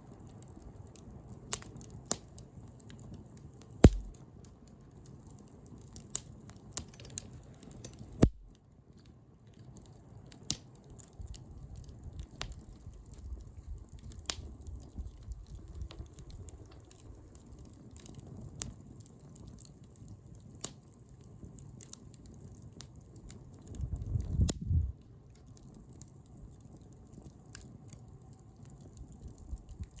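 Wood fire crackling, with irregular sharp pops over a low steady rustle; the loudest pops come about four and eight seconds in. A short low rumble comes near the end.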